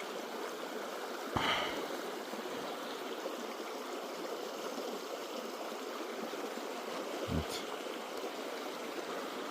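A trout stream flowing steadily, its rush of water filling the background. A short knock stands out about a second and a half in, and a brief low thump comes near the end.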